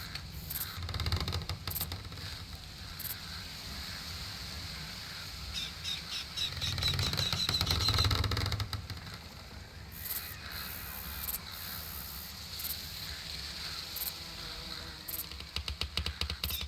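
Outdoor nature ambience: birds calling over a steady low rumble and a constant high hum, with runs of quick clicks about halfway through and again near the end.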